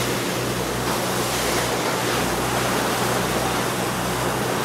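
Boat under way at sea: a steady low engine drone under a constant rush of wind and water.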